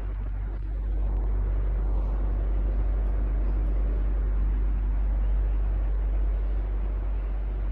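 Electric fan running steadily: a constant low hum under an even whoosh of moving air.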